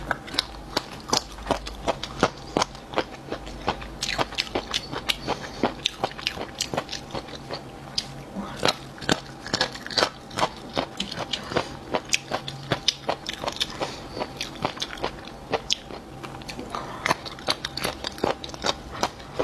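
Mouth crunching and chewing crunchy triangle-bone cartilage: a rapid run of sharp crisp crunches, several a second, with wet chewing between them.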